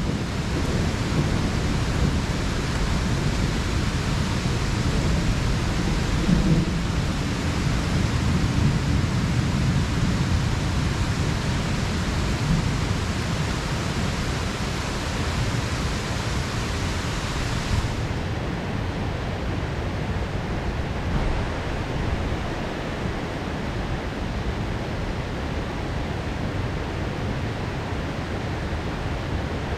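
Heavy rain pouring in a steady hiss, with a low rumble of thunder rolling through the first ten seconds or so and fading. A little past halfway the hiss suddenly turns duller, losing its highest part.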